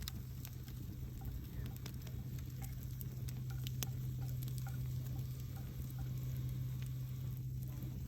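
Wood campfire crackling, with scattered sharp pops and snaps over a steady low hum.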